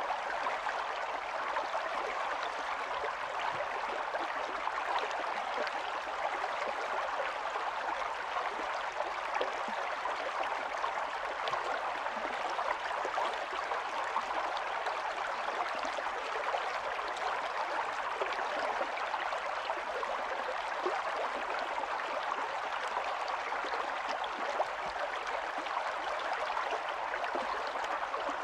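Small stream running steadily over stones, a continuous burble and splash of water with many fine droplet crackles.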